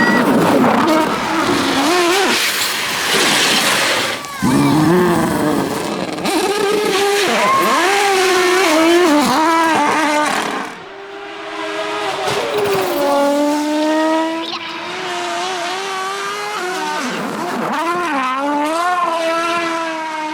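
Rally car engines at full throttle, their pitch rising and falling again and again through gear changes and lifts. The sound breaks off abruptly twice and a different car takes over.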